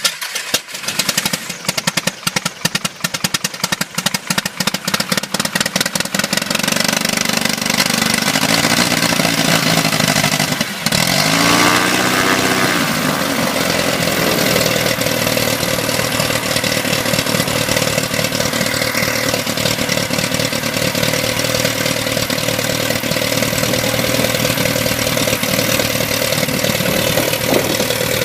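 Piston engine and propeller of an RV-7 kitplane starting for the first time. It fires unevenly for about six seconds, then settles into a steady run, with a brief change in engine speed about eleven seconds in.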